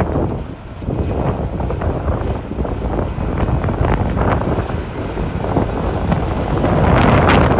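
Komatsu D41P bulldozer's diesel engine running while it works, a heavy uneven rumble with wind buffeting the microphone, growing louder about seven seconds in.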